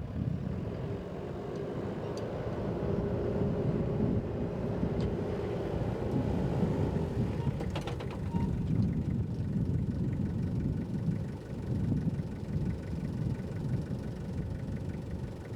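Engine of a 1997 Toyota Dyna LY151 fire truck running with a steady low rumble, with a few faint clicks.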